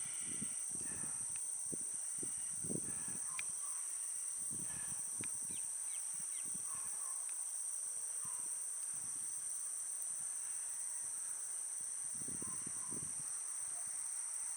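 Steady high-pitched insect chorus, a continuous trill on two pitches, with scattered faint bird chirps.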